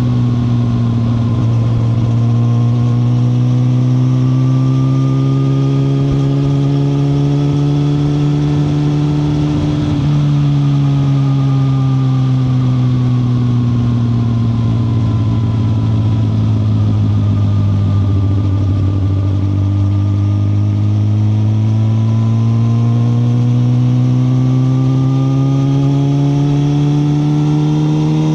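2021 Suzuki GSX-R1000R's inline-four engine running on the move. Its note climbs slowly for about ten seconds, then breaks and steps briefly. After that it sinks gradually as the revs fall, and climbs again near the end.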